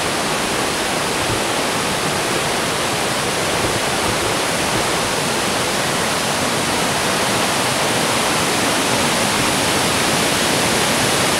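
Waterfall: a steady, full rush of falling water, even and unbroken.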